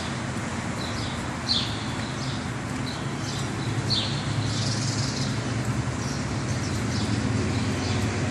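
Small birds chirping, a few short falling chirps scattered through, over a steady low hum.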